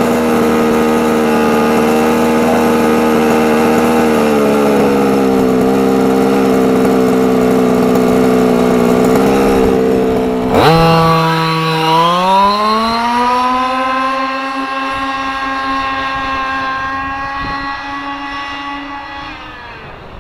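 The 23cc two-stroke gas engine of a 1/5-scale Losi 5ive-T RC truck running at high revs on a speed run. Its pitch dips slightly about four seconds in. About ten seconds in it drops sharply, then climbs back and holds steady while growing fainter toward the end.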